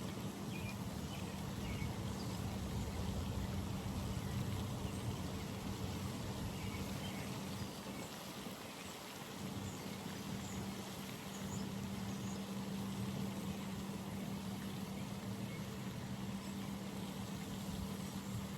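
Outdoor pond ambience: a steady low rumble with a constant hum, dipping briefly about halfway through, and faint scattered bird chirps.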